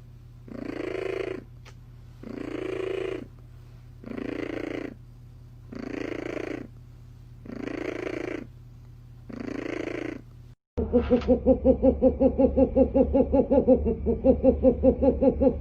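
A cat's loud rasping purr-breaths, one slow, even rasp about every two seconds. About ten and a half seconds in, the sound cuts off and a louder, rapid pulsing cat vocalisation takes over, about five pulses a second.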